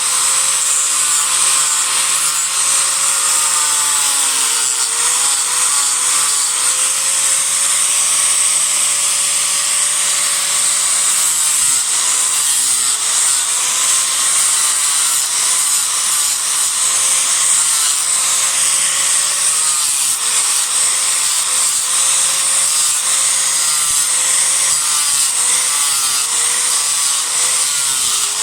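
Disc grinder grinding into cedar wood without a break, its motor pitch dipping and recovering several times as the disc bites and eases off.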